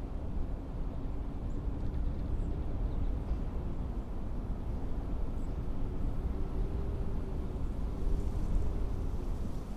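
Blizzard wind blowing in gusts: a deep, steady rush that swells and eases, with a faint whistling tone riding over it.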